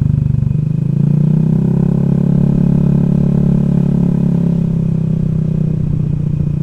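Honda Vario scooter engine running under way, its note rising gently and then easing back, with low wind rumble.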